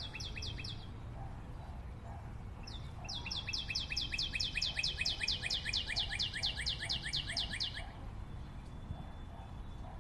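A bird singing a fast trill of high, downward-sweeping chirps, about five a second: a short run at the start and a longer one lasting several seconds from about three seconds in, over a steady low rumble.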